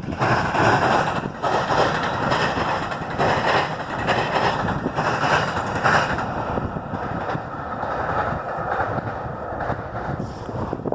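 Metra commuter train passing close by: a steady, loud rush and rumble of the train going by, with uneven surges as the cars pass. It starts abruptly and eases off near the end.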